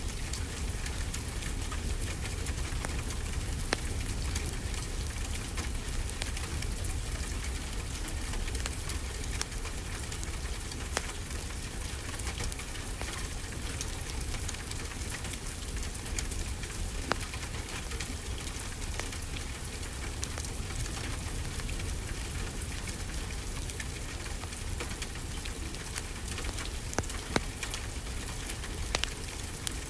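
Steady rainfall hissing evenly, mixed with the scattered sharp pops of a crackling wood fire. A few louder pops come near the end.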